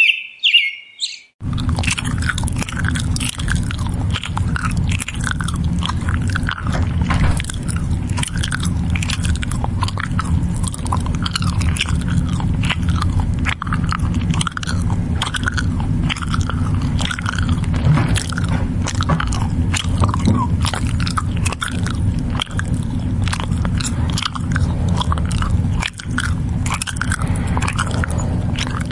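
Close-up chewing and crunching of feed by livestock: a dense, continuous run of small crunching clicks over a low rumble. Birds chirp for about the first second before it starts abruptly.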